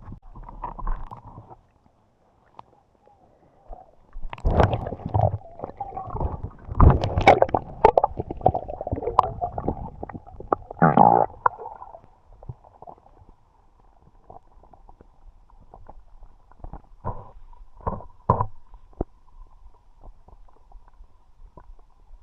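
Underwater sound picked up by an action camera in a river: low rumbling water movement with sharp clicks and knocks. It is loudest from about four to twelve seconds in, then drops to a faint steady hum with a few scattered clicks.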